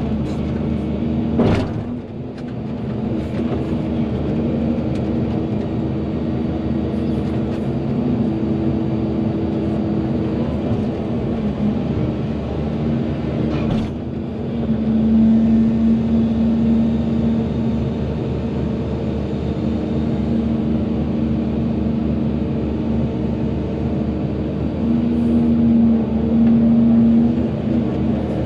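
Volvo EC220DL excavator's diesel engine running steadily while digging, its note swelling louder twice, about halfway through and near the end. A sharp knock comes about a second and a half in and another around halfway.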